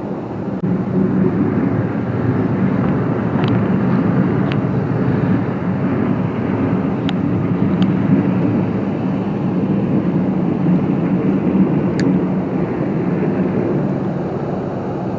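A vehicle scraping a parking lot, likely a truck plowing it: a steady, loud mechanical rumble with scraping noise, swelling up a little under a second in and holding. It is described as making all kinds of racket.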